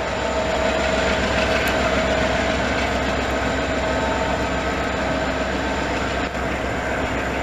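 Long CN intermodal freight train rolling past at low speed: a steady rumble of cars on the rails with a constant high whine over it.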